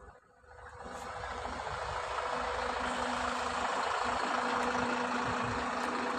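An engine comes up from near quiet over about two seconds and then runs steadily and loud, with a steady hum under a dense hissing rush.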